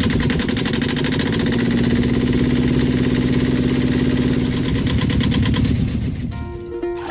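A small engine running steadily at an even pitch, then fading out about six seconds in as music with held notes comes in.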